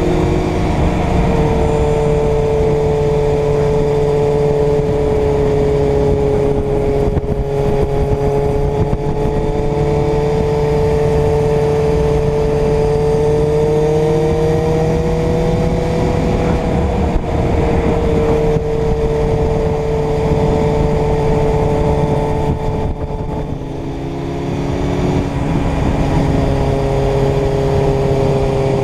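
Inline-four motorcycle engine running at a steady cruise, its pitch drifting gently up and down, with wind rushing on the microphone. About 23 seconds in the engine eases off briefly and drops in pitch, then settles back to a steady run.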